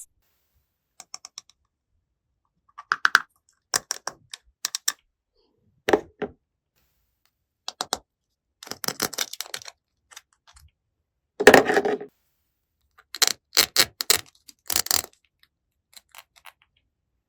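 Small plastic toy kitchen pieces clicking and tapping as they are handled, in scattered irregular taps, with a longer rattle a little past the middle.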